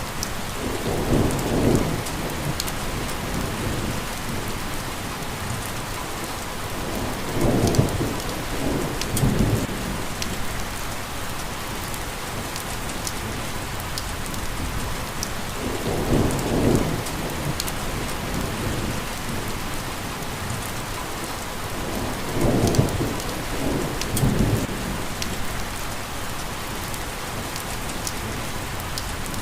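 Steady rain hiss, with short low rumbles of thunder every six to eight seconds, several of them in pairs.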